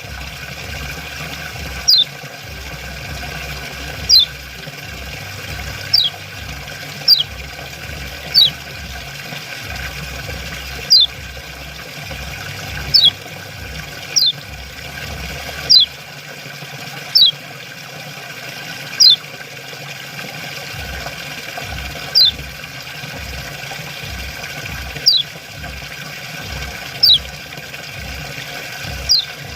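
Common iora giving its 'ciak' call, a short high note sliding downward, repeated about every one to three seconds over a steady hiss of running water.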